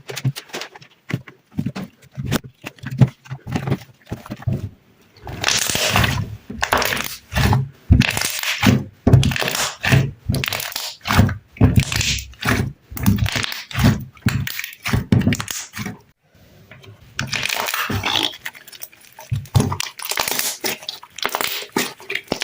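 Sticky slime being squeezed and pulled by hand close to the microphone: a dense run of irregular sticky pops, crackles and soft squelches, with longer stretches of crunchy crackling partway through and again near the end.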